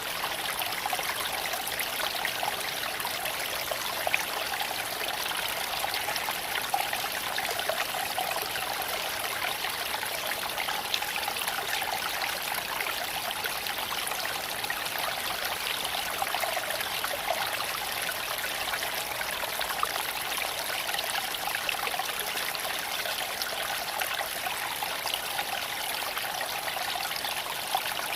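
Creek water flowing steadily over stones, with a few sharp crackles from a campfire now and then.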